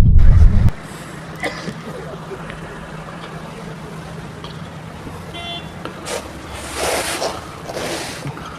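Road vehicle noise: a loud, deep rumble cuts off about a second in, giving way to steady traffic noise with a few louder swells near the end.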